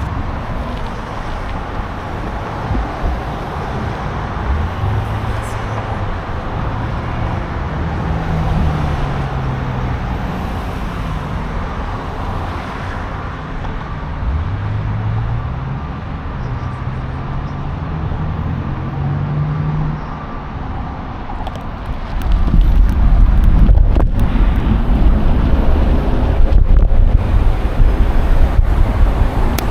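City street traffic heard from a moving bicycle, with passing vehicles' engines rising and falling in pitch. About 22 seconds in, a low wind rumble on the microphone gets much louder.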